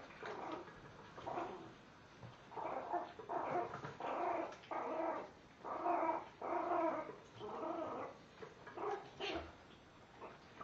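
Puppy growling in a run of short repeated growls, guarding his food bowl.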